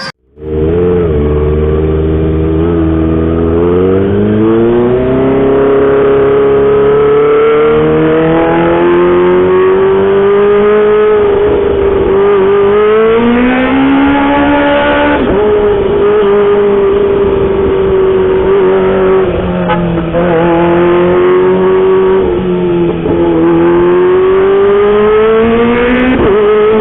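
Kawasaki Ninja ZX-25R's 250 cc inline-four running hard through a loud homemade aftermarket exhaust while being ridden. The high engine note climbs over the first few seconds, then holds and dips and climbs again as the revs change, with a sharp drop about fifteen seconds in.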